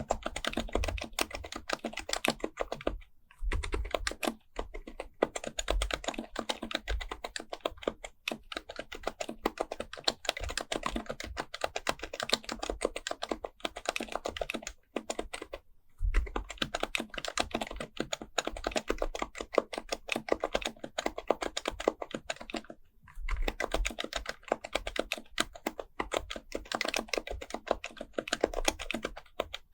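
Steady, fast typing on an HHKB Pro Type-S keyboard's silenced Topre capacitive switches, a rapid run of soft key clicks broken by brief pauses a few times.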